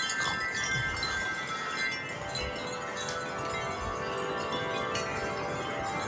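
Wind chimes ringing continuously in strong gusty wind, many tones at different pitches overlapping and sustaining.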